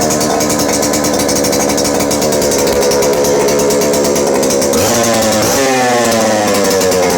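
Vintage Stihl 07S two-stroke chainsaw engine running with its bar and chain removed, loud and steady at high speed. About five seconds in the revs drop briefly and then climb back up.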